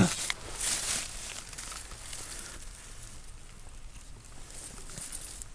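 Faint rustling and handling noises, with a few short clicks in the first second, then quieter rustle.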